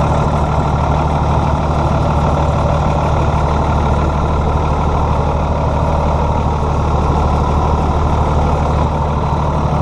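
2008 Hino 338 box truck's six-cylinder diesel engine idling steadily, an even low drone with no change in speed.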